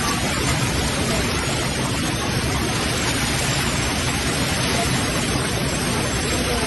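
Steady, loud rushing of water from rain and floodwater.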